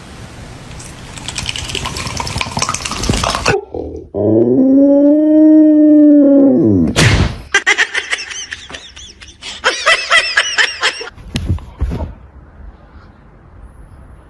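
A pet animal's long drawn-out call, its pitch rising and then falling over about three seconds, loudest in the middle of the stretch, with shorter wavering calls before and after it.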